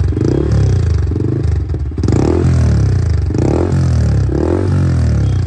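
Yamaha R15M's 155 cc single-cylinder engine breathing through a newly fitted Akrapovic full-system exhaust, blipped repeatedly so the exhaust note rises and falls several times.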